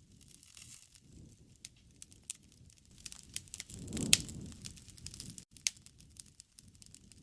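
Wood campfire crackling, with irregular sharp pops. A low rumble swells and fades about four seconds in, together with the loudest pop.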